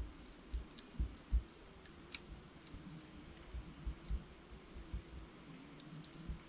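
Wood logs burning in a fireplace, crackling with irregular pops and snaps over a faint steady hiss, with one sharp crack about two seconds in.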